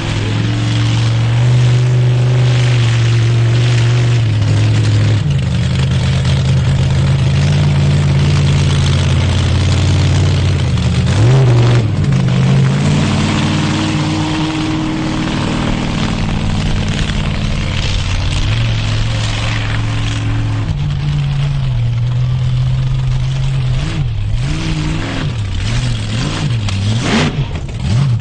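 Monster truck engine running loud under steady throttle, with a brief rev about halfway through and a string of quick blips up and down near the end.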